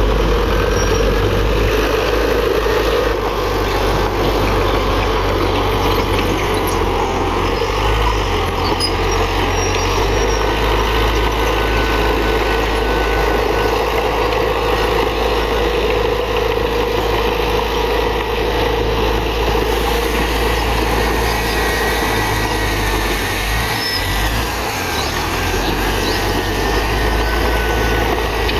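Heavy diesel earthmoving machinery running steadily under load, with a faint high whine over the engine rumble.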